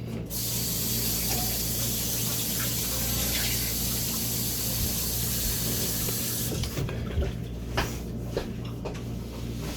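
Water tap running into a sink for about six seconds, then shut off, followed by a few light knocks and clicks.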